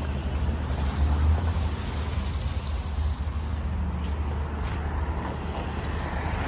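Steady low rumble of road traffic waiting at a level crossing as the barriers lift.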